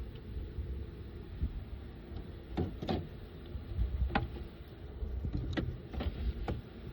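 Beehive being worked by hand: wooden hive parts and a hive tool clicking and knocking about six times, over a low steady rumble.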